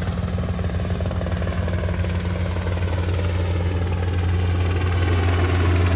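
Helicopter in flight, its rotor beating fast and steadily over a low engine hum, growing slowly louder.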